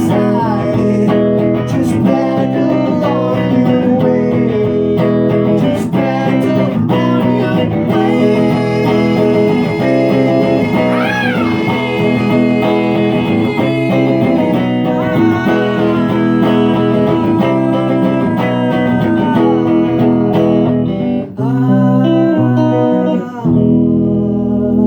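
Live electric guitar music, dense and loud, with layered looped guitar parts building to a crescendo. Near the end the texture drops back to low sustained chords.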